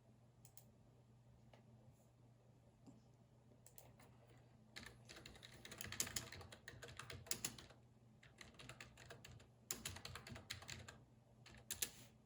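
Computer keyboard typing: a few isolated key taps at first, then runs of fast typing about five seconds in and again near the end, over a faint steady low hum.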